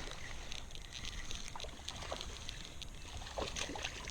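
Light water splashing and small ticks around a kayak as a freshly hooked bass is brought in, with a few sharper splashes in the second half.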